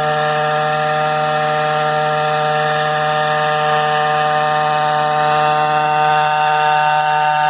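Small combustion engine of a variable-pitch quadcopter running at a steady, constant speed, giving a loud, even buzzing hum.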